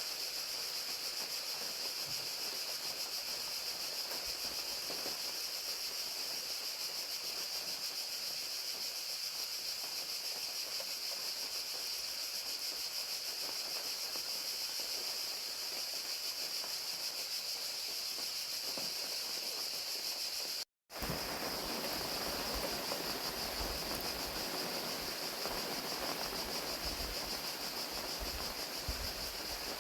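Crickets chirping in a dense, steady high chorus over the even hiss of falling rain. The sound cuts out completely for a split second about two-thirds through, then resumes with a little more low rumble.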